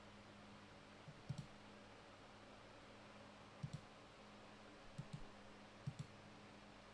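Faint clicks, mostly in quick pairs, four times, over a low steady hum.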